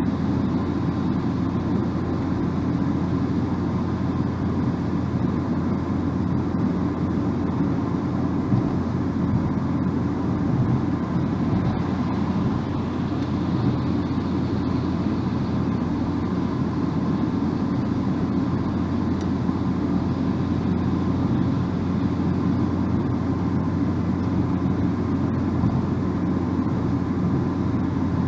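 Steady road and engine noise of a car driving at speed: an even, low drone of tyres on the road and engine hum that does not change.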